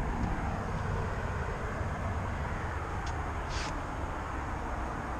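Steady low rumble and hiss of outdoor background noise, with a brief higher hiss or scrape about three and a half seconds in.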